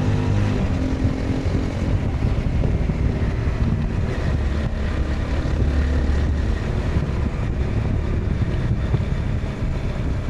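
Honda CBR 250R's single-cylinder 250cc engine running on the move, its note easing off about one and a half seconds in and settling lower. Steady wind rush over the pocket microphones throughout.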